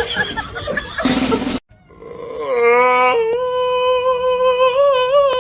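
A busy, noisy jumble cuts off about one and a half seconds in. After a short gap, a long howl rises and then holds one steady pitch with a slight waver for about four seconds.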